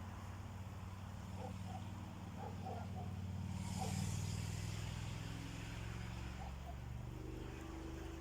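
A motor vehicle's engine running with a steady low hum, growing louder to a peak about halfway through and then easing off, as if passing by. Faint short chirps are heard through it.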